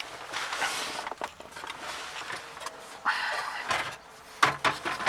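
A plastic dash module being pushed and worked into its opening in the center console: rubbing and scraping of plastic on plastic, then a few sharp clicks near the end as it seats.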